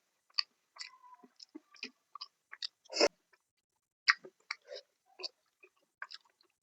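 Close-miked chewing of fish curry and salad: irregular wet mouth smacks and small crunches, a sharper one about three seconds in and another just after four seconds.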